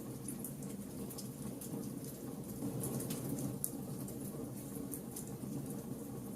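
Wood fire burning steadily, with irregular sharp crackles and pops from the burning wood over a low, even rush of flame.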